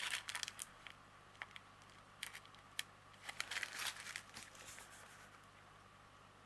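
Small plastic packets of diamond painting drills crinkling and rustling as they are handled and sorted, in several short bursts that die away for the last second or so.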